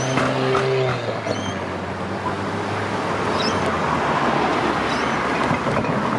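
Melbourne trams running across the crossing, with a steady motor hum that dies away after about a second, over a rumble of wheel and road noise. A few short high squeaks or chirps come through.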